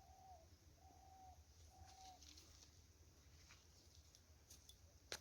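Faint bird calls: three short, even notes about a second apart, followed near the end by a single sharp click.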